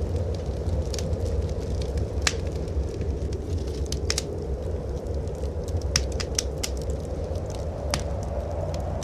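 Wood fire crackling in a fireplace, with sharp scattered pops, over a steady low rumble of blizzard wind.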